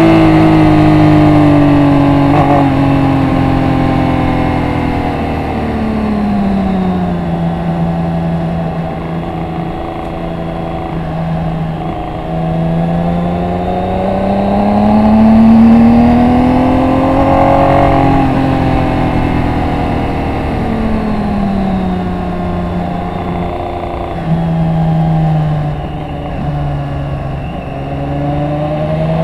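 BMW K1600 GT's inline-six engine heard from an onboard camera at track speed: revs fall as it slows, hold low, climb to a loud peak midway, drop again and rise once more near the end. Wind rushes over the microphone throughout.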